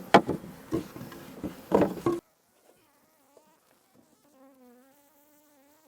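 Agitated honey bees buzzing around an opened hive, with several sharp knocks in the first two seconds. The sound then cuts off abruptly to near silence, leaving only a faint wavering buzz.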